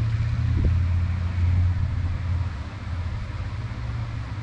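A steady low mechanical rumble with a hiss over it, like a motor vehicle running nearby, easing off about halfway through.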